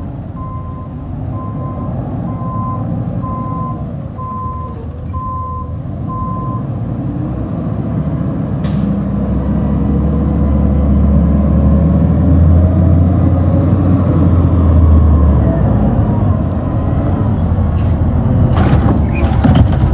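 A garbage truck's reversing alarm beeps steadily over its diesel engine for about six seconds. The engine then runs harder and louder for several seconds, with a high whine over it. A few sharp knocks come near the end.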